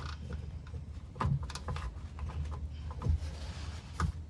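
A few light knocks and clanks of tools and parts being handled at the oil drain under the car, over a low steady hum.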